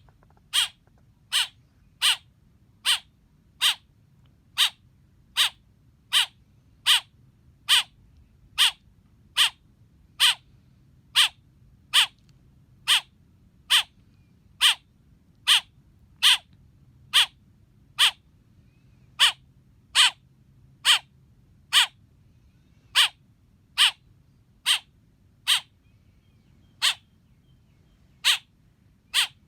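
Baby black bird chirping: single short, sharp chirps repeated evenly about once a second, with a couple of slightly longer gaps near the end.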